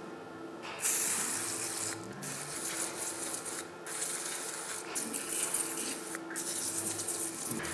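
Steady hissing, rubbing noise over a low machine hum, dipping briefly four times, typical of abrasive or spray work on alternator parts in a workshop.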